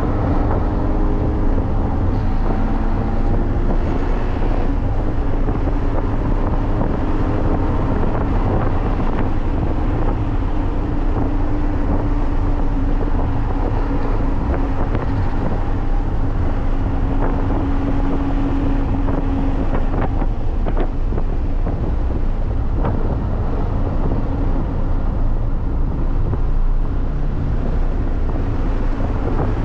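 Toyota GR86's 2.4-litre flat-four engine pulling at track speed, heard from inside the cabin over wind and road noise. Its pitch shifts at first and then holds a steady note for several seconds, with a few sharp clicks past the middle. The engine is down on power.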